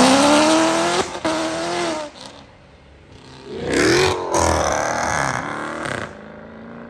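A car engine revving hard as the car accelerates away, the pitch climbing steeply with a short break about a second in, then fading. A second loud burst of revving rises about four seconds in and dies away.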